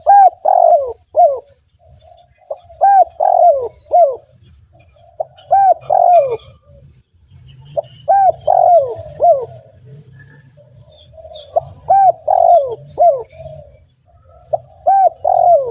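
Spotted dove (tekukur) cooing loudly and repeatedly. About six phrases come one every three seconds or so, each of three or four rising-and-falling coos.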